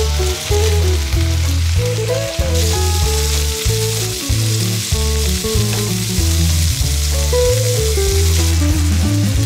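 Bean sprouts, cabbage and pork sizzling as they are stir-fried in a foil-lined frying pan over a portable gas burner. The sizzle grows louder about two and a half seconds in and eases off near the end. Background music with a steady bass line plays over it.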